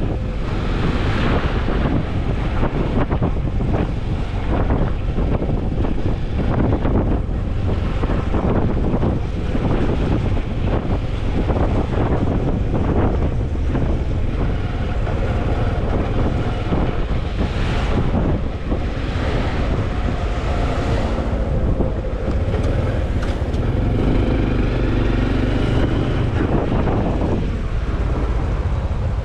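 Honda CT125 Hunter Cub's single-cylinder four-stroke engine running while riding, with wind buffeting the microphone. About three-quarters through, the engine note comes through more clearly for a few seconds.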